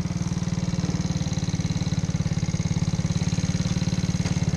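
Small 50cc motorcycle engine running steadily at low revs while riding slowly, a fast even pulsing from the exhaust.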